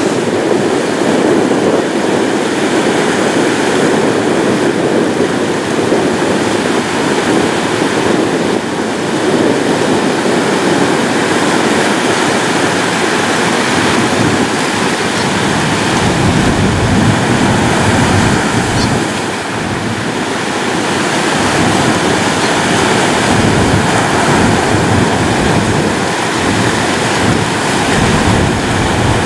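Ocean surf: waves washing and breaking continuously on a shore. A deeper rumble of breaking waves comes in about halfway through, with a brief lull about two-thirds of the way in.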